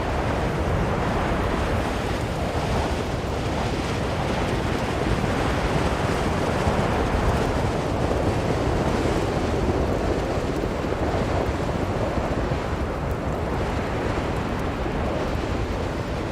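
Strong blizzard wind blowing steadily, a full rushing noise with a deep rumble underneath that swells and eases slightly.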